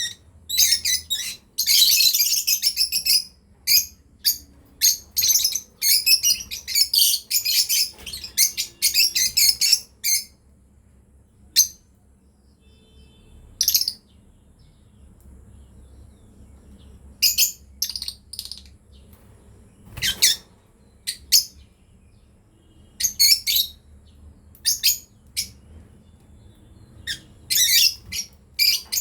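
Lovebirds chirping in quick, high-pitched bursts. The chirps come thick and fast for about the first ten seconds, thin out to a few scattered calls, then pick up again in the second half.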